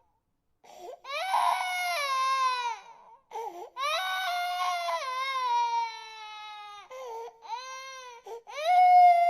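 Infant crying in long wails, each falling in pitch, broken by short gasps for breath between cries. A brief pause at the start, then about four cries, the last and loudest near the end.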